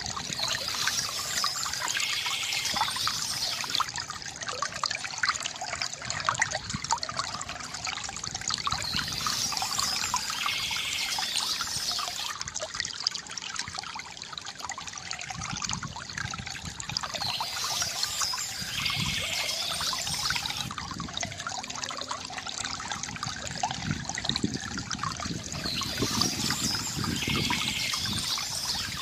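Water from a bamboo fountain trickling and gurgling steadily, with a brighter splashing swell that comes back about every eight or nine seconds.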